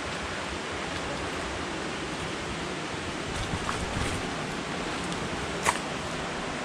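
Steady rush of a waterfall's falling water, an even hiss without pauses, with a brief click about five and a half seconds in.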